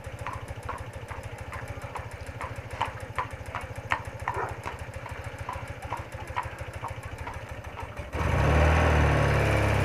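BMW R80RT air-cooled flat-twin engine ticking over quietly, with a few short high chirps over it; about eight seconds in, it suddenly gets much louder, engine and wind noise rising together as the bike pulls away.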